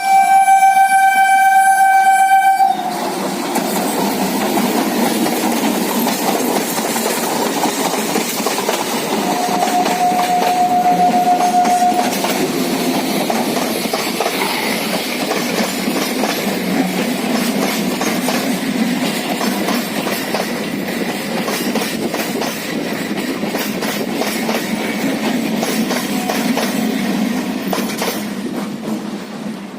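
Electric multiple unit (EMU) passenger train sounding a loud horn for about two and a half seconds at the start, then running with a steady rumble and wheel clatter; a fainter, shorter horn note comes about ten seconds in.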